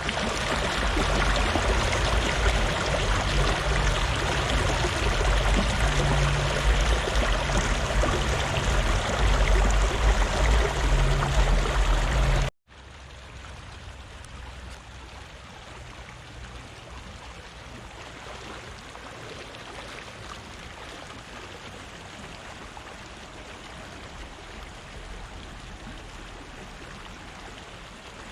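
Fast-flowing river water rushing loudly, cutting off abruptly about twelve seconds in to a quieter, steady stretch of flowing water.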